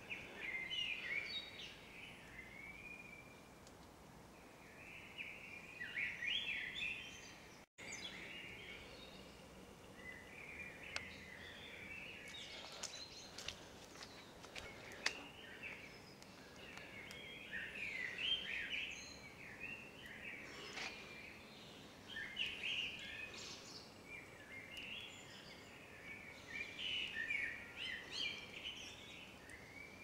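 A songbird singing short, warbling chirping phrases every couple of seconds over a low, steady hiss of falling wet snow.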